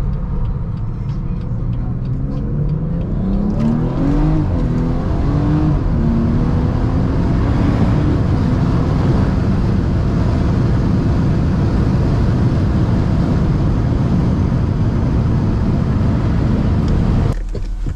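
BMW 340i's turbocharged straight-six, breathing through a catless downpipe and resonator-delete exhaust, accelerating hard. The engine note climbs, drops at a gear change about four seconds in and climbs again, then holds loud and steady until it falls away near the end.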